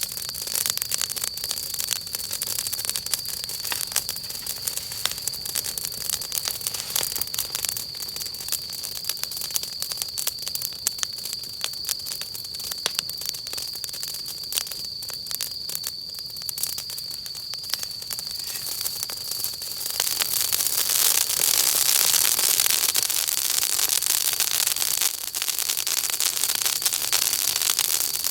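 Wood fire crackling, with a thick run of small snaps and pops. About two-thirds of the way through, a louder steady hiss joins the crackle. A faint, steady high-pitched tone runs underneath.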